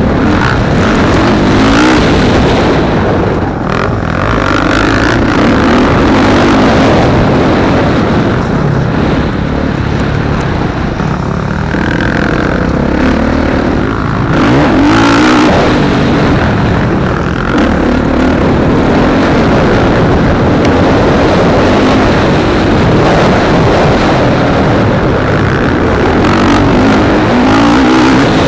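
Motocross motorcycle engines running hard, the pitch rising and falling again and again as the bikes accelerate and back off around the track.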